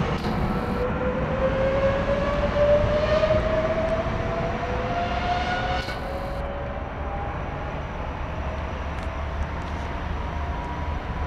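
Trenitalia Minuetto regional train pulling away, a whine rising steadily in pitch as it accelerates, over a running rumble. About six seconds in the sound drops off as the train draws away, leaving a fainter rumble.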